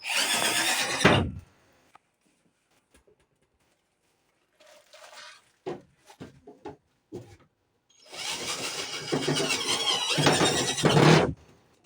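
Thin aluminium sheet being handled and fitted, rattling and scraping. There is a short loud burst at the start, a few knocks in the middle, and a longer loud stretch of rattling near the end.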